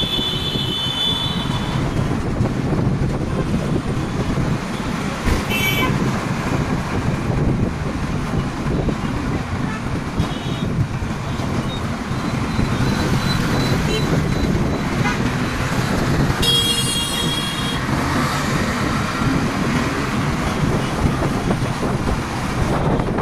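Road traffic heard from a moving motorbike: a steady rumble of engines and road noise, with vehicle horns honking several times. The longest and loudest honk comes about two-thirds of the way through.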